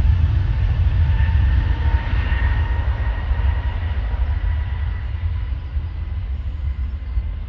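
Airbus A320-200 jet engines at takeoff power, a deep rumble with a faint steady whine, slowly fading as the airliner climbs away.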